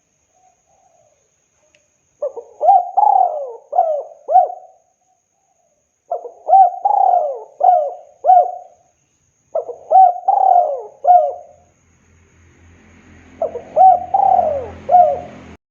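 Spotted dove cooing: four phrases of several short, dropping coos each, a few seconds apart. A low hum and hiss come in under the last phrase, and the sound cuts off suddenly at the end.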